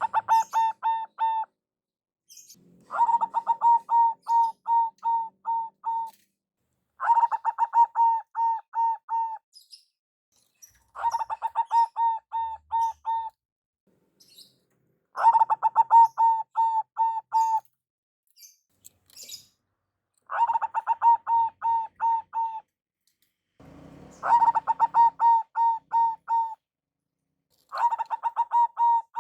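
Zebra dove (perkutut) cooing: phrases of quick, evenly pulsed notes, each phrase two to three seconds long, repeated every three to four seconds.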